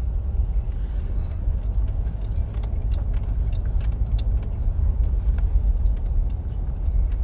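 Steady low rumble of a car driving, heard from inside the cabin, with scattered light clicks and rattles.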